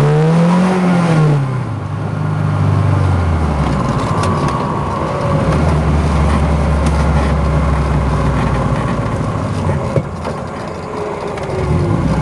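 1974 BMW 2002tii's fuel-injected four-cylinder engine revving: its pitch climbs and falls in the first second, holds, drops to a lower steady run about three seconds in, and climbs again near the end.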